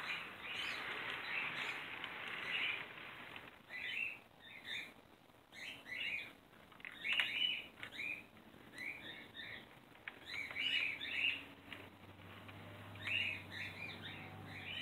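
A small bird chirping in quick clusters of short, high chirps, again and again. A low steady hum comes in about two-thirds of the way through.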